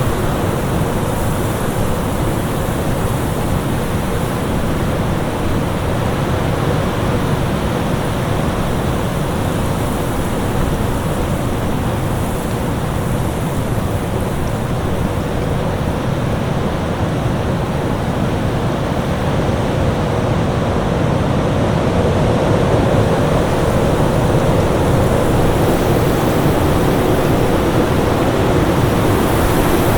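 Winter storm ambience: a steady, dense rush of wind noise, heaviest in the low and middle range, swelling slightly over the last third.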